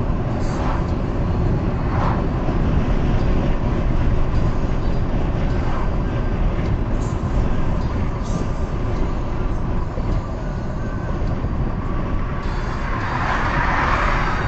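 Road noise inside a moving car at highway speed: a steady low rumble of tyres and engine, with a louder rushing swell near the end.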